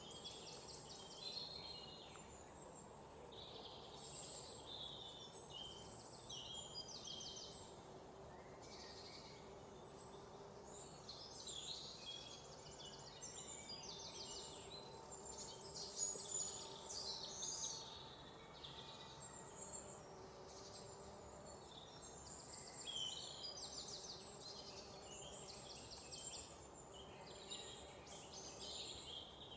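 Several songbirds chirping and trilling, with many short, quick calls overlapping, over a faint steady background hum.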